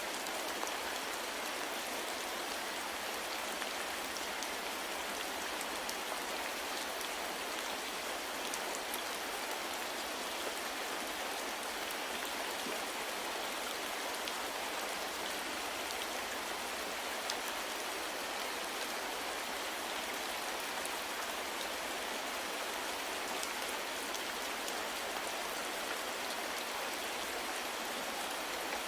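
Steady soft rain falling on a surface, an even hiss with scattered raindrop ticks.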